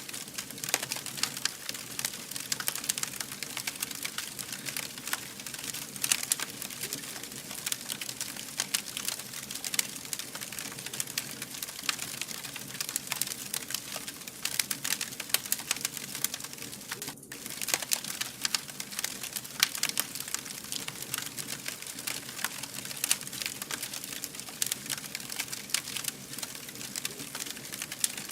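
Campfire burning with dense, irregular crackling and popping throughout. The crackle cuts out for a split second about seventeen seconds in.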